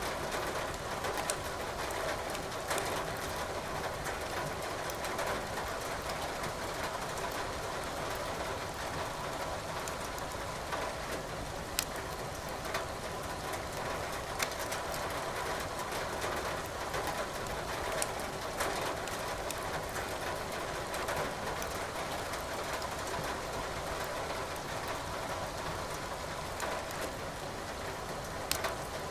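Steady rain with burning wood logs crackling in a fireplace, a sharp pop every few seconds.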